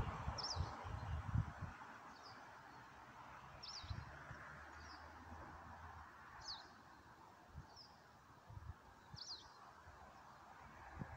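A small bird chirping outdoors: short high calls repeated about every second or two over a faint steady background hiss, with occasional low thumps on the microphone.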